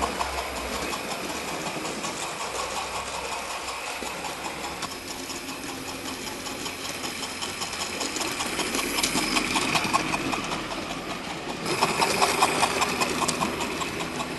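Hornby OO gauge B12 model steam locomotive running on the track: a steady small electric motor whirr with a fast run of fine clicks from the wheels and mechanism. It grows louder twice, about two thirds of the way in and again near the end, as it passes close by.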